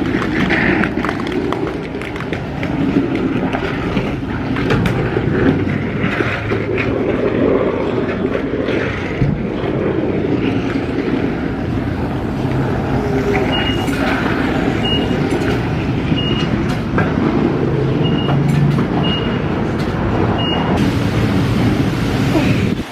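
Car wash bay noise: a pressure-washer wand spraying with its pump running, a loud steady rush. In the second half a run of short high beeps sounds, about seven in all.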